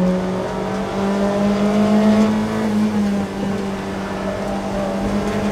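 Mazda MX-5 race car's four-cylinder engine running hard on track. Its pitch climbs, drops about three seconds in, then climbs again near the end.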